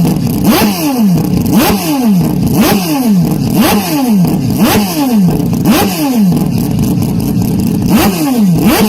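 Motocross bike engines revving hard, the pitch climbing and then dropping sharply again and again about once a second, as bikes pass and shift or hit the jumps.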